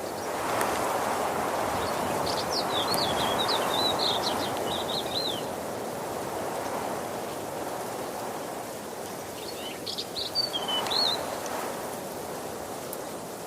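Waterfall: a steady rush of falling water that swells over the first few seconds and again about ten seconds in. A songbird sings two short warbled phrases above it.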